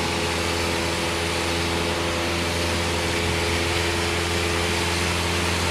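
Steady cabin drone of a Cessna light aircraft's piston engine and propeller in level flight, a constant hum with a few steady tones over it.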